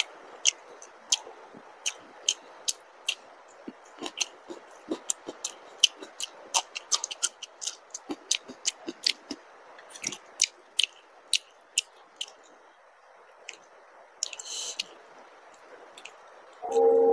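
Close-up chewing of soft fried luchi (puri) dipped in dal: wet mouth smacks and clicks, several a second, over a steady background hiss.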